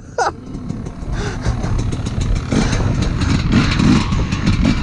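Dirt bike engine revving in irregular throttle bursts, getting louder about halfway through.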